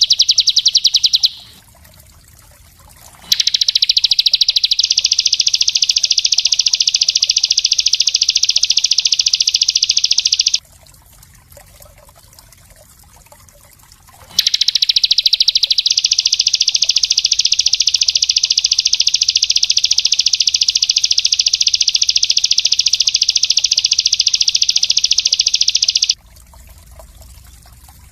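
Small songbird giving very fast, dense, high-pitched rapid-fire trills ('tembakan'). It sings in long unbroken bouts: one of about seven seconds, then after a pause one of about twelve seconds.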